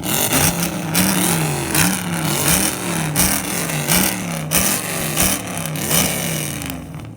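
Car engine revved in quick repeated blips, the pitch climbing and falling about ten times, with sharp exhaust cracks at many of the peaks. It dies away near the end.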